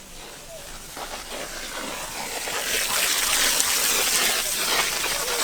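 Rushing water: a steady gushing noise that grows steadily louder.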